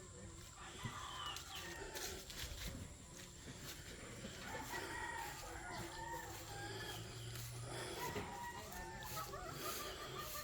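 Chickens clucking and calling, with a rooster crowing, in many short scattered calls.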